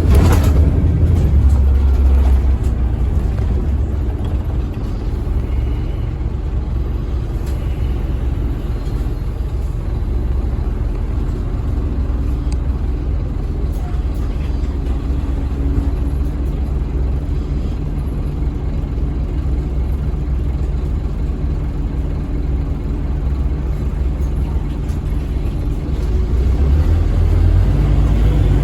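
A 2008 Scania N230UB OmniCity single-deck bus on the move, heard from inside: the steady low drone of its five-cylinder diesel engine with road noise. The low rumble is louder near the start and again near the end.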